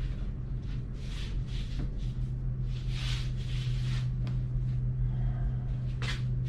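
Steady drone of ship engine-room machinery: a constant low hum under a rushing hiss that swells and fades every second or so.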